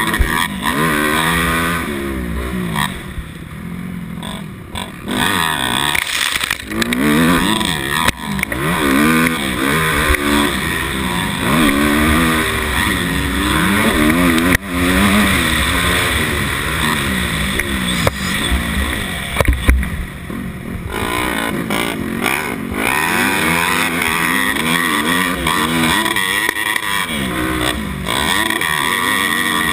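250cc dirt bike engine being ridden hard, revving up and dropping back over and over as the throttle opens and closes, the pitch rising and falling every second or two.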